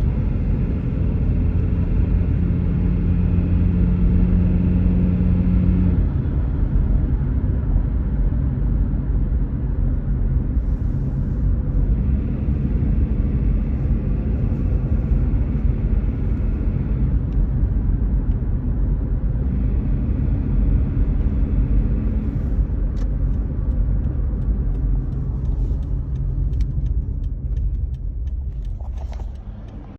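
Toyota RAV4's 1AZ-FE 2.0-litre four-cylinder engine running cold under load, with a rattle. The engine note shifts several times, and sharp clicks come in over the last few seconds.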